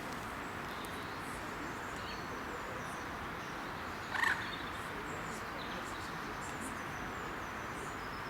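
Small birds calling and singing over a steady background rush, with faint high chirps throughout and one louder short call about four seconds in.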